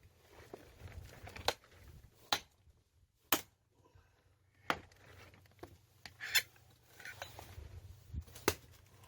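An axe striking firewood to split it: six sharp chopping strikes, one to two seconds apart.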